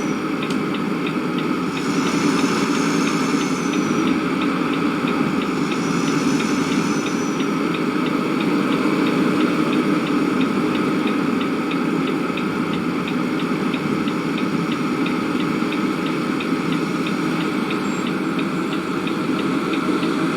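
A motor running steadily, with a fast, even ticking of about three ticks a second over its hum.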